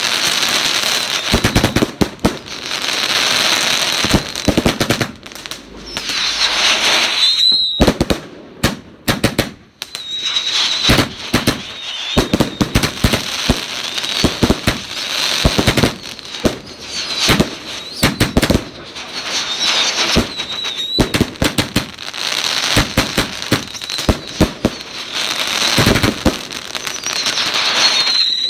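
A barrage of consumer fireworks going off in quick succession: repeated launch thumps and bangs with dense crackling, and a high wavering whistle now and then. The barrage eases briefly twice, about a third of the way in, then picks up again.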